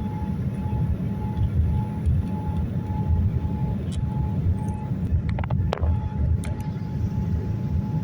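Steady low rumble heard inside the cabin of a Boeing 787-9 airliner. A faint tone beeps about twice a second, then holds steady. A few sharp clicks and a brief falling squeak come a little past halfway.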